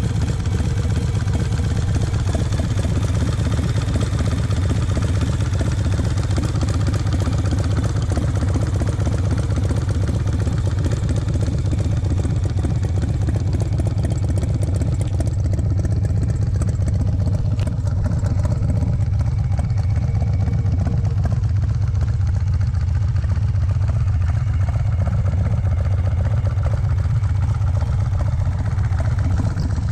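A 2007 Eddie Trotta Thunder Cycle Drop-Dead chopper's V-twin engine idling steadily.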